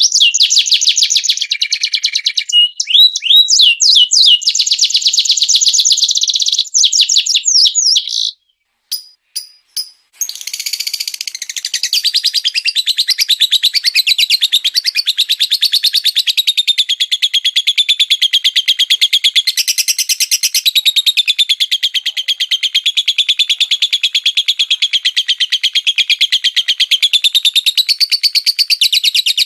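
Small songbirds singing rapid-fire 'tembakan' song, fast runs of high repeated notes. About eight seconds in, the trilling breaks off for a brief near-silence with a few clicks. A second, continuous fast high chatter then takes over.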